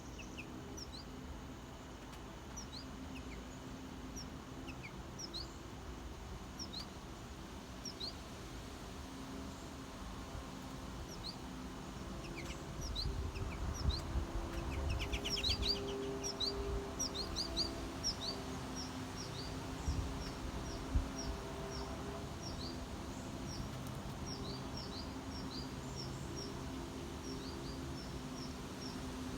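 Small songbirds chirping outdoors: many short, high, down-slurred chirps repeating through the whole stretch, with a quick trill about halfway. A low steady hum and a brief low rumble near the middle sit underneath.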